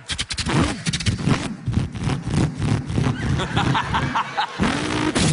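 A man imitating a V8 Holden Torana with his voice: engine revs climbing and falling again and again like gear changes, with rapid popping crackles in the first couple of seconds.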